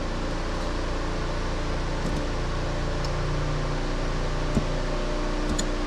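A steady mechanical hum with even noise, like a running fan or blower, with one faint tick a little past halfway.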